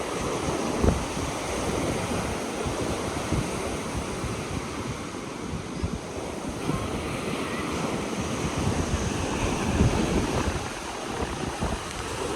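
Ocean surf washing onto the beach, with wind buffeting the microphone in gusts.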